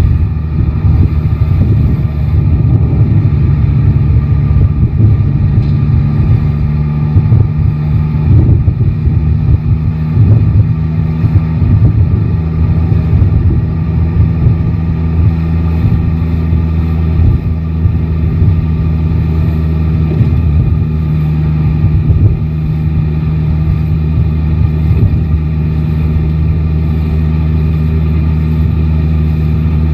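Yamaha Tracer 9 GT's 890 cc inline-three engine running at a steady speed on the move, with gusty wind rumbling on the microphone.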